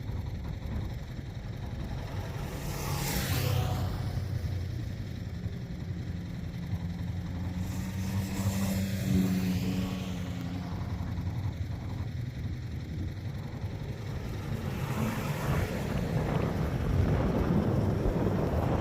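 Motor vehicle engines running with a steady low rumble. Vehicles pass close by three times: about three seconds in, around the middle, and again after about three quarters, each swelling and then falling away.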